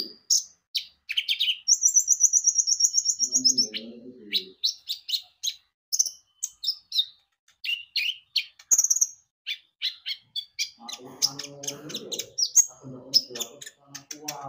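Konin (kolibri ninja) sunbird singing in a rapid stream of short high chirps and tweets, with a fast, even trill of about a second and a half near the start.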